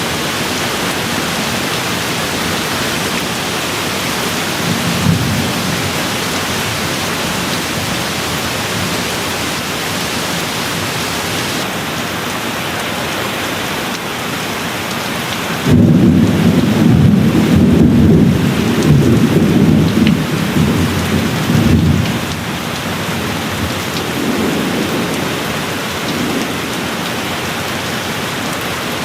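Steady rain falling, with a thunder roll that breaks in suddenly about halfway through and rumbles for several seconds before dying away. Fainter low rumbles of thunder come early on and again near the end.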